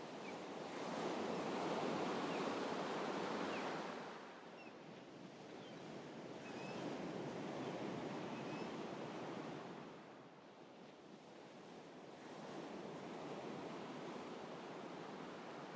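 Ocean waves washing in and out, swelling and fading in three slow surges about five to six seconds apart.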